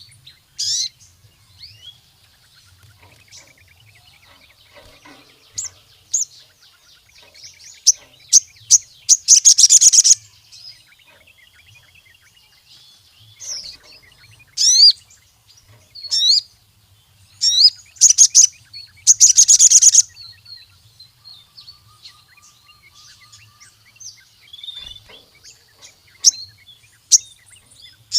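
Sogon sunbird singing: loud, high-pitched, rapid trilling bursts of about a second each, several in quick succession in the middle, mixed with short sharp chirps and thinning to scattered chirps near the end.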